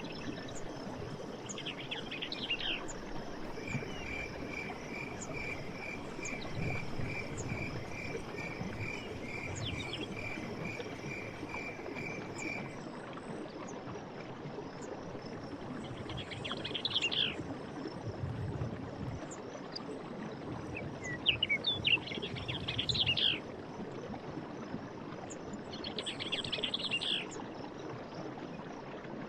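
Forest stream running steadily, with birds calling in short bursts several times. A run of evenly repeated high notes, about two a second, goes on for about nine seconds early on, over a faint steady insect chirring.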